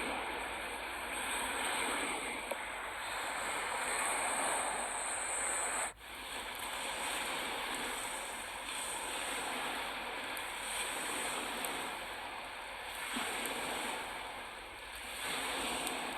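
Rough waves washing onto the lakeshore in strong wind, a steady rushing noise with a brief gap about six seconds in.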